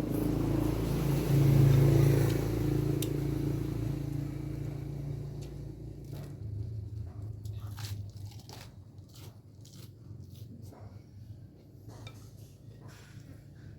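Close-up eating of boat noodles: chewing with short wet smacks and clicks of the mouth, coming thick and fast in the second half. It starts over a low steady rumble that is loudest about two seconds in and dies away by about six seconds.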